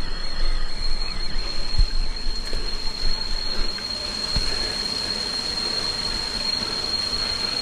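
Steady rushing of a waterfall, with a constant thin high-pitched whine over it. Low knocks and rumbling in the first half, then a steadier rush.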